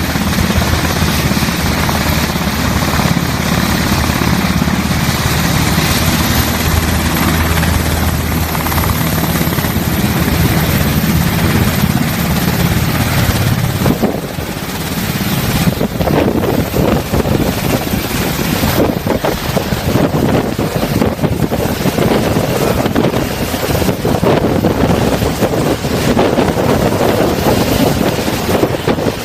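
Navy Black Hawk helicopter running at takeoff, its twin turbine engines and rotors giving a loud, steady low hum. About halfway through, the hum gives way to a gusty rushing noise with buffeting on the microphone.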